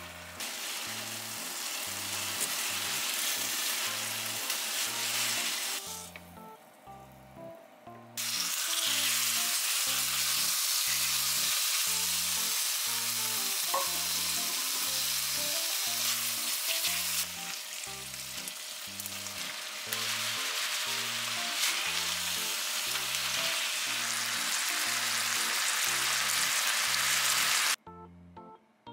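Food sizzling in a hot frying pan: konjac noodles with soy seasoning, then sliced beef, frying. The sizzle drops out for about two seconds around six seconds in and stops shortly before the end. Light background music with a steady bass beat plays underneath.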